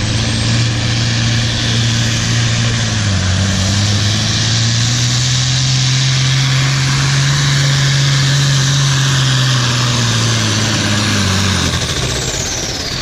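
Pulling tractor's engine working hard under heavy load as it drags the sled. Its note dips about three seconds in, then climbs and holds, with a high whine above it. Near the end the engine drops off and the whine slides down.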